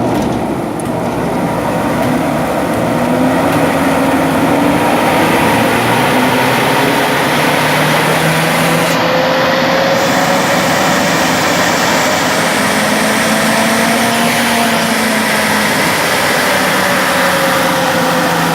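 Industrial centrifugal exhaust blower driven by a 50 hp WEG W22 Plus electric motor, running: a loud, steady rush of air that builds over the first few seconds and then holds, with a faint tone slowly rising and falling in pitch.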